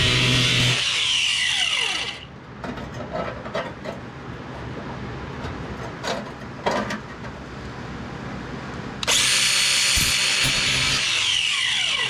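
A handheld power tool run on sheet metal in two bursts: the first winds down with a falling whine about two seconds in, and after a quieter stretch with a few sharp clicks, the tool starts again abruptly about nine seconds in and winds down near the end.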